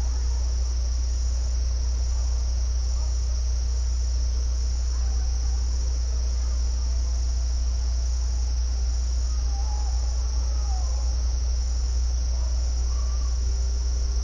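A steady, high-pitched chorus of insects, typical of crickets, over a continuous low rumble. Faint wavering calls come and go in the background, mostly in the later part.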